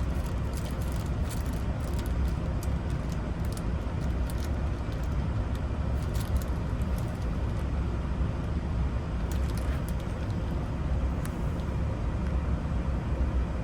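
Steady low rumble with faint, scattered small clicks, the clicks from handling a Silverado ignition lock cylinder and its parts.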